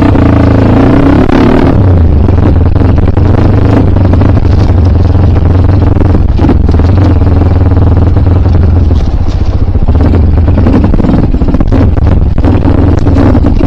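Kawasaki KLX single-cylinder dirt bike engine running under steady throttle, loud and close, with scattered knocks and rattles from the bike over rough ground.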